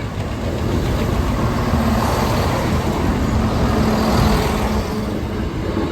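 A train passing over the level crossing: a steady engine drone under wheel and rail noise, swelling to its loudest in the middle.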